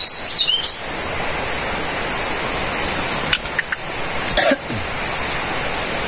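Small forest birds chirping, a few short whistled notes sliding up and down within the first second, over a steady high hiss of forest background. A few light rustles or knocks come around the middle.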